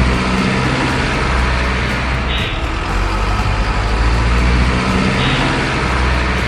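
Truck engine running steadily, with two brief bursts of hiss about two and a half and five seconds in.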